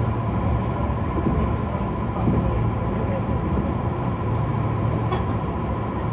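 Kintetsu 6020 series electric commuter train running along the line, heard from just behind the driver's cab: a steady low rumble of wheels and running gear with a thin, steady high-pitched tone throughout.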